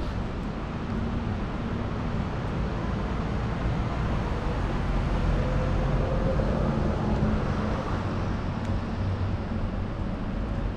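Steady low rumble of city traffic noise, growing a little louder around the middle, with a faint steady hum.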